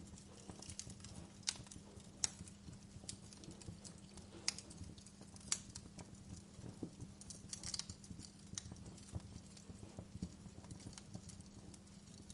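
Wood fire crackling: irregular sharp pops and snaps over a soft hiss, with a low steady hum underneath.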